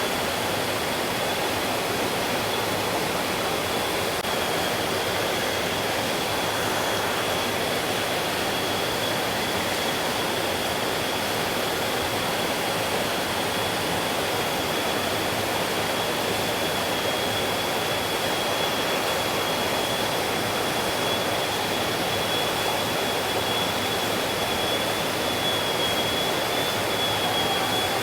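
Stream water flowing, a steady rush of water, with a thin steady high tone above it.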